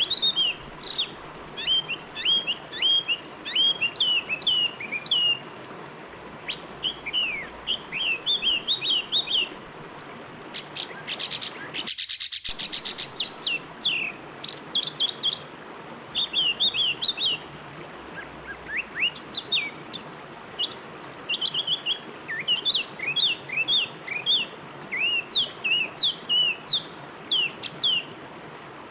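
Small songbirds giving rapid, short falling chirps, with one fast trill about halfway through, over a steady rush of flowing river water.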